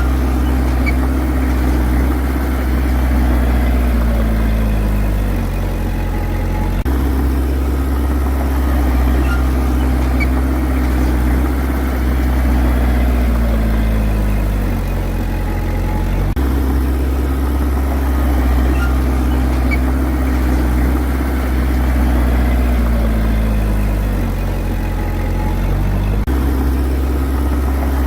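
Heavy diesel engine of a bulldozer running steadily. About every ten seconds its pitch sags over a second or two, as when the engine pulls down under load, then jumps back up, three times in all.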